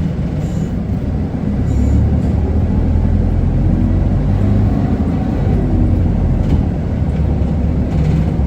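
Isuzu Erga city bus's diesel engine and road noise heard from inside the passenger cabin, a steady low running sound that grows louder about a second and a half in as the bus gathers speed.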